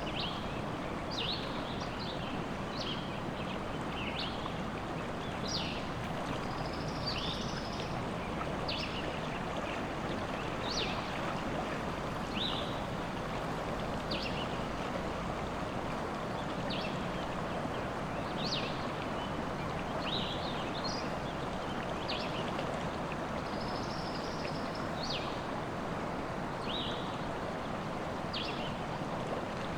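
River water running steadily, with birds chirping over it in short high calls, roughly one a second.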